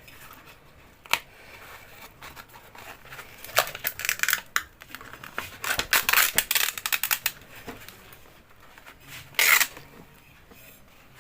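Hand work on a loudspeaker as its voice coil is taken out: scattered clicks and a few short stretches of scraping and rasping, the loudest a little past the middle.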